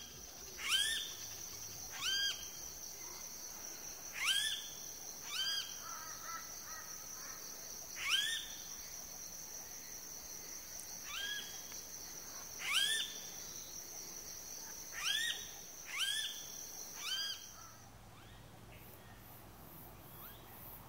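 A bird calling about ten times, each call a short note that sweeps upward, over a steady high-pitched insect drone that cuts off near the end.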